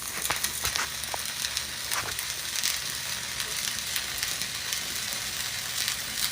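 Flux-core arc welding: the arc crackling and sizzling steadily as wire is fed into the weld.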